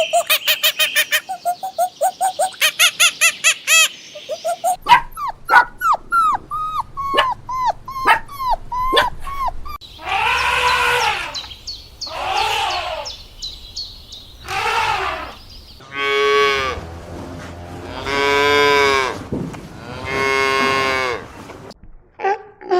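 A run of animal calls: rapid repeated calls at the start, short falling chirps, three higher calls, then three long cow moos, each about a second and a half, near the end.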